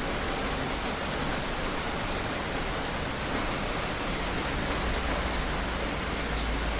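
Heavy rain falling in a steady, dense hiss. A low rumble builds underneath it in the last two seconds.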